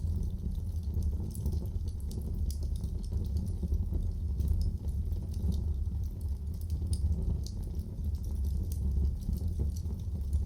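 Wood fire burning in a fireplace: a steady low rumble with frequent irregular crackles.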